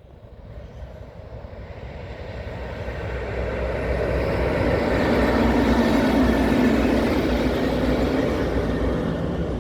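Diesel locomotive passing: a broad rumble that grows louder over about five seconds, then eases slightly.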